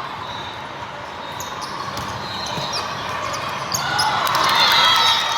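Indoor volleyball being played: thuds of the ball being struck and bouncing on the hard court, over a hum of crowd voices that swells about four seconds in.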